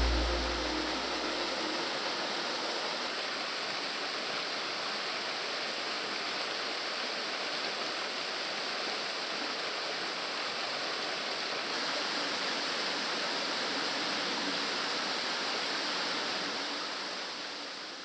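Steady rush of a waterfall, fading out near the end.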